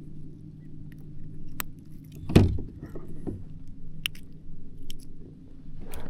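Scattered sharp clicks and knocks, with one louder thump a little over two seconds in, over a steady low hum.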